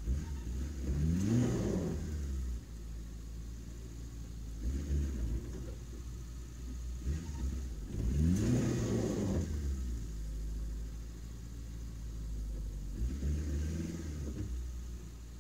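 Suzuki Samurai's four-cylinder engine pulling at crawling speed over a rutted dirt track, its revs rising and falling three times: about a second in, again around the middle, and more weakly near the end.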